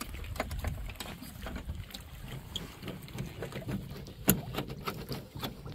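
Wooden paddles being clamped across a canoe's thwart for carrying: scattered clicks and knocks of paddle shafts and fasteners against the boat, with one sharper click about four seconds in, over a low rumble.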